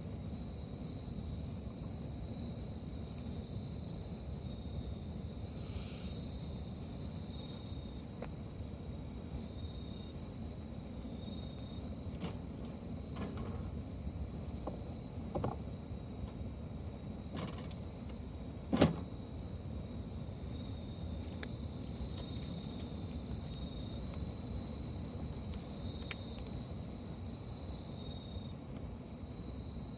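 Crickets trilling steadily in the background while a wood fire crackles, with a few sharp pops, the loudest about nineteen seconds in.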